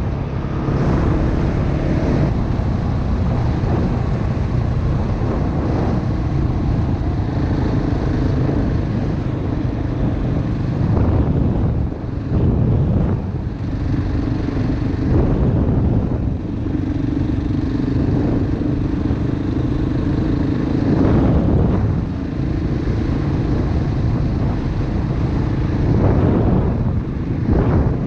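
Single-cylinder dirt bike engine running under way. The engine note dips briefly a few times.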